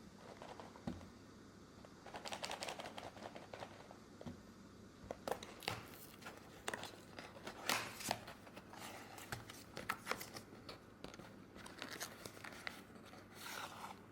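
Intermittent crinkling and tearing sounds with scattered sharp clicks and taps, as of something being handled and unwrapped.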